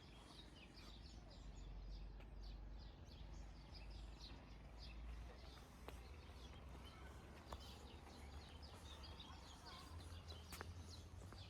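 Faint chirping of small birds, many short high calls scattered through, over a low steady rumble of wind or outdoor background noise.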